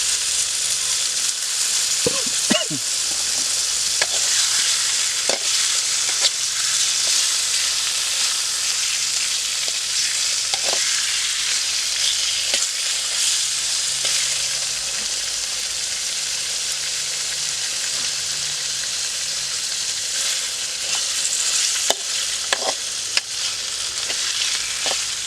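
Snakehead fish frying in hot oil: a steady sizzling hiss with scattered pops and crackles.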